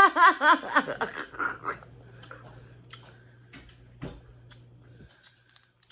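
Close-up chewing of crispy fried fish: soft wet mouth sounds and scattered small crunchy clicks, after a brief burst of voice in the first second.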